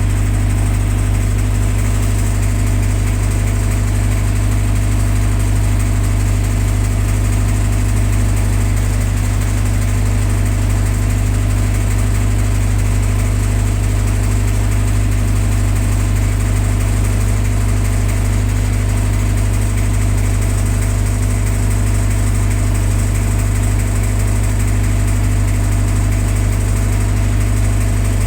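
Generator set's engine running steadily at an even, unchanging speed, with a loud low drone.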